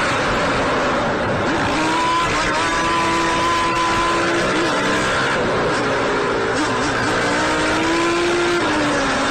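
Vehicle engine running at fairly steady high revs, its pitch dipping briefly and climbing back a few times, over heavy road and wind noise.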